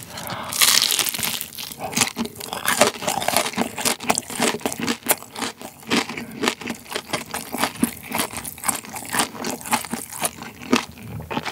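A bite into a crispy hash brown waffle layered with cheese and bacon, then steady crunchy chewing full of small crackles. The bite, about half a second in, is the loudest part.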